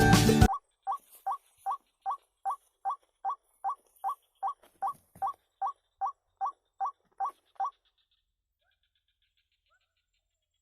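White-breasted waterhen calls: a steady series of short, even 'kwak' notes, nearly three a second, which stops about eight seconds in.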